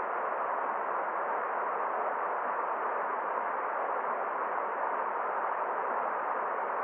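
Forest stream rushing: a steady, even water hiss without distinct splashes or drips, muffled in the highs.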